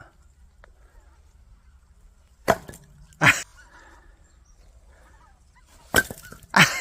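Axe blows splitting firewood for a wood stove: four sharp chops in two pairs, each pair about a second apart, with a few seconds between the pairs.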